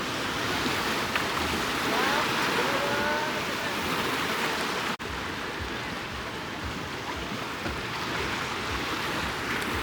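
Steady sea surf and wind at the shore, with wind buffeting the microphone. There is a brief break about halfway through.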